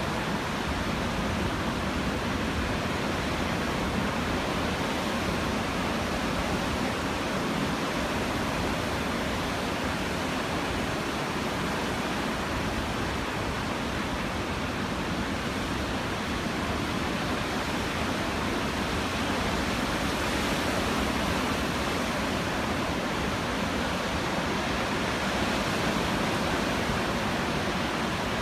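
Steady roar of ocean surf in post-typhoon swell, an even rushing noise with no single wave crash standing out.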